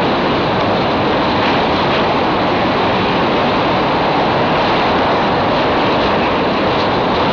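Passenger train running across a steel truss railway bridge, heard from an open carriage window: a steady, loud rush of wheel and wind noise.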